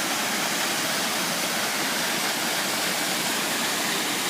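Waterfall rushing: a steady, loud roar of falling water close by, swollen after heavy rain.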